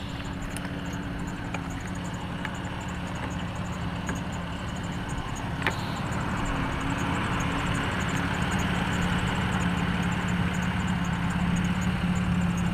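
A 2001 Ford Ranger's 4.0-litre V6 idling steadily, growing gradually louder, with one brief click about halfway through.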